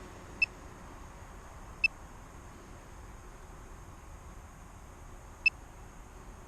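Three short, high electronic beeps, unevenly spaced, over a steady faint hiss.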